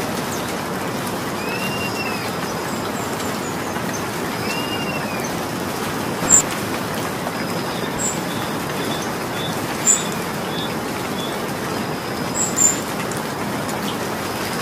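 Steady rain falling, with a few louder sharp taps of drops. Birds call over it: a few arched calls in the first half, then a run of short chirps.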